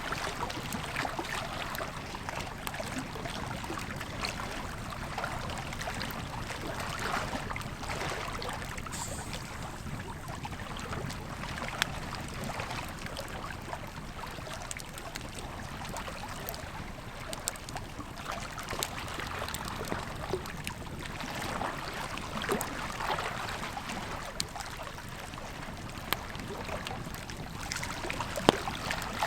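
Campfire crackling with scattered sharp pops over the steady rush of a flowing river.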